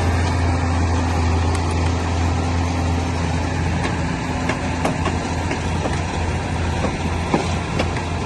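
Heavy diesel engine of earthmoving equipment running steadily with a deep hum, with a few sharp knocks or clicks in the second half, the loudest about seven seconds in.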